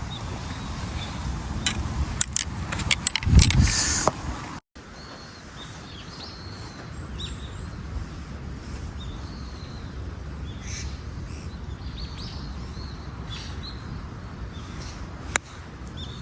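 Wind buffeting the microphone, rising in a gust about three seconds in, then a cut. After it, birds chirping in short calls over a steady outdoor hiss, and a single sharp click near the end.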